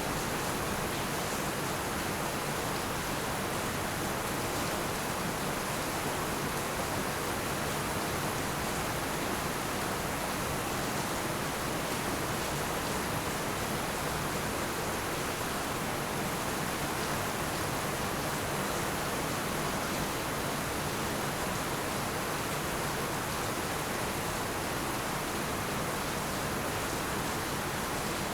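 Heavy rain falling steadily, an even, unbroken hiss of countless drops on roofs and ground, with no thunder.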